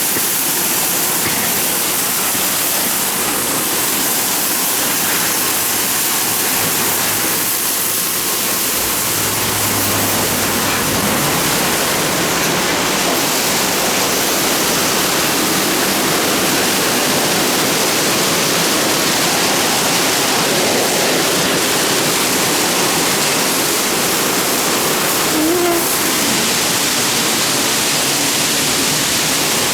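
Steady rush of water jets spraying over a car in a BayWash I5 soft-touch automatic car wash.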